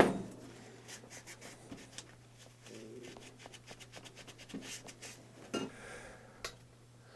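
Soft rubbing and scattered small clicks of hand work at a workbench, with a sharp knock right at the start, over a steady low hum.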